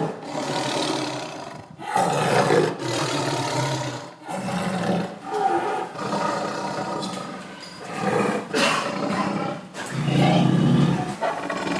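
Tiger roaring repeatedly: deep roars, each a second or two long, following one another every couple of seconds.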